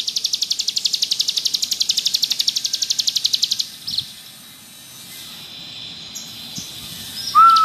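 Ciblek gunung singing its rapid "ngebrem" trill, a fast, even run of high buzzy notes that stops about three and a half seconds in, followed by a short falling chip. Near the end a loud, steady, lower whistle starts.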